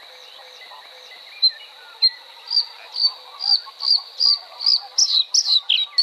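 Short, sharp small-bird chirps, starting about a second and a half in and repeating faster and louder, about one every half second at first and several a second by the end. They sound over a steady high-pitched insect note.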